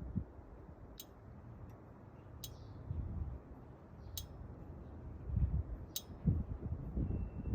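Light, sharp ticks repeating about every one and a half to two seconds over a faint low rumble.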